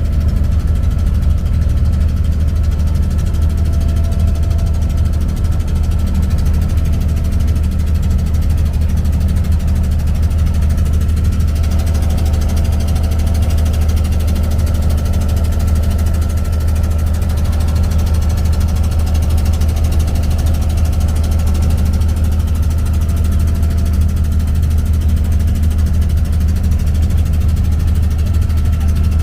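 An abra ferry boat's inboard diesel engine running steadily with a loud, even low drone and a faint steady whine above it.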